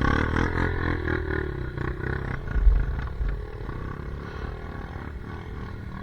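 Enduro motorcycle engine running on a trail ride, loudest at first and then settling to a lower, steadier run. There is a low thump a little before halfway.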